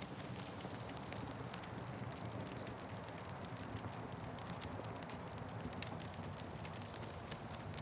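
Wood fire crackling, with many small sharp pops over a steady low rumble.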